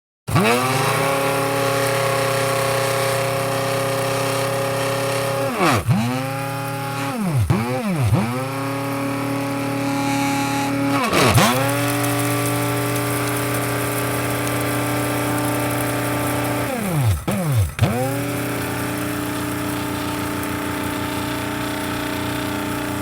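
Electric coffee grinder motor starting up and running with a steady hum. It is released and pressed again several times: each time the pitch drops away and climbs straight back up, once about six seconds in, twice around eight seconds, once near eleven seconds, and twice near seventeen to eighteen seconds.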